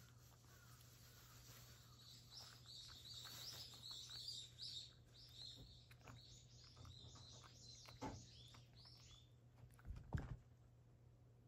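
Faint twittering of a small bird: a rapid run of short high chirps from about two seconds in until a little after nine, over a low steady hum. A few soft knocks, the loudest a thump about ten seconds in.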